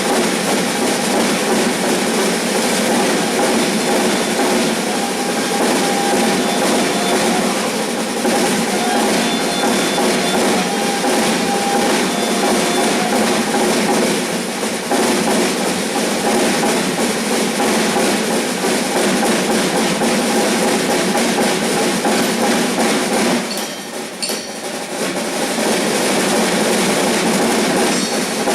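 Percussion ensemble playing a dense, steady drum rhythm that imitates a train's clickety-clack, briefly thinning out about 24 seconds in before picking up again.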